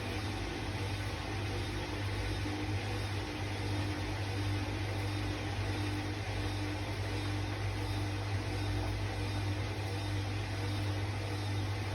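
Hoover washing machine running partway through a 14-minute quick wash, giving a steady low hum with a fainter tone that comes and goes above it.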